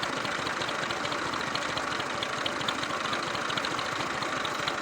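Massey Ferguson 240 tractor's diesel engine idling steadily, with a fast, even knocking beat.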